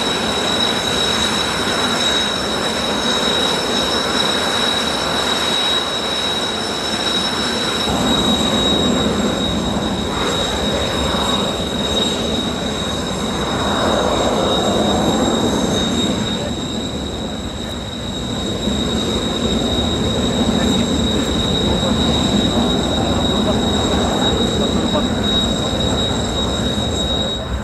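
Jet engines of the Blue Impulse Kawasaki T-4 trainers running on the ground, a steady high-pitched turbine whine over a rumbling roar that swells and eases a few times.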